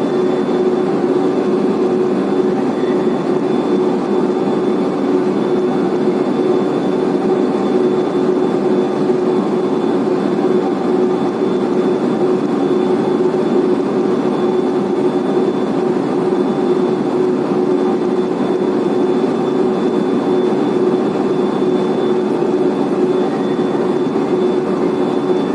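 Blast furnace main charging conveyor and the heavy plant machinery around it running with a loud, steady drone. A constant hum and a faint high whine sit over it, unchanging throughout.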